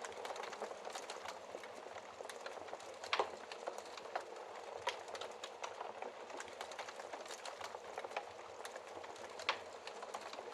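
Wood fire burning in a fireplace, with a steady hiss and irregular sharp crackles and pops throughout; the loudest pops come about three seconds in and near the end.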